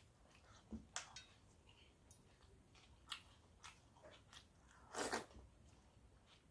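A person chewing and biting food: faint, scattered crunches with a few sharper bites, the loudest about five seconds in.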